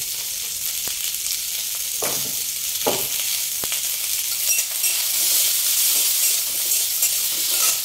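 Spices and cashews sizzling in hot oil in a kadai while being stirred. The spoon scrapes and knocks against the pan a few times, most clearly about two and three seconds in.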